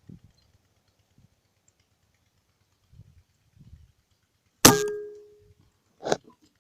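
An air rifle shot: one sharp crack with a short metallic ring dying away over about a second, then a second, shorter sharp knock about a second and a half later.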